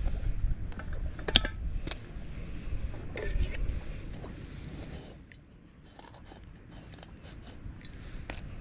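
Clicks, crinkles and rustling of camp-stove cooking gear and food packets being handled, the sharpest click about a second and a half in, with wind rumbling on the microphone during the first few seconds.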